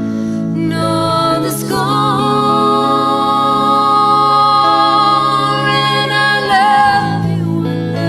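A band playing a slow ballad, with a singer holding one long note with vibrato over the accompaniment.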